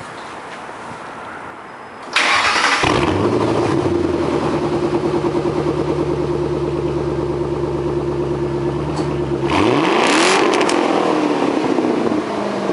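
2006 Ford Mustang GT's 4.6-litre V8 through Gibson headers and a Borla ATAK exhaust, starting up about two seconds in and settling into a steady idle. About ten seconds in it is revved once, the pitch rising and dropping back toward idle.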